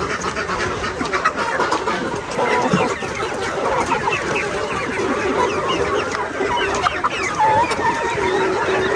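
A flock of free-range chickens clucking and calling, many short calls overlapping at once without a break.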